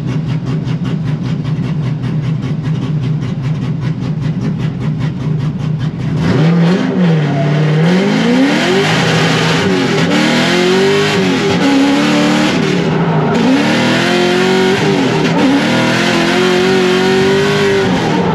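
Drift car engine running steadily, then from about six seconds in revving hard, its pitch rising and falling again and again as the car is driven on the throttle.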